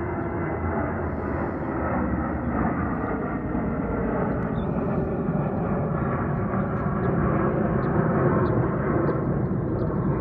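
Airliner jet engines at takeoff power: a steady rushing noise with a faint hum in it, growing slowly louder.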